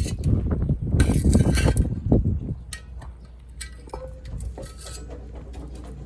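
Several light metallic clinks and knocks of cooking gear being handled, some with a brief ring, over wind rumbling on the microphone. There is a louder stretch of rustling and clatter in the first two seconds.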